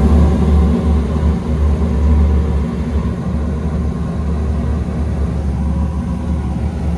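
Carrier rooftop HVAC unit running with its fan on, a steady rumble with a faint mechanical hum over it.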